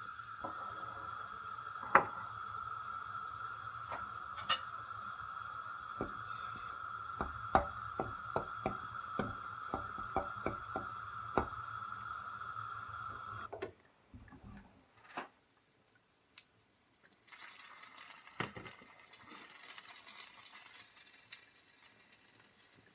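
Cheese omelette cooking in a frying pan of sunflower oil, with scattered crackles and pops over a steady high hum. The hum cuts off suddenly about fourteen seconds in; after a short near-silent gap, fainter crackling goes on.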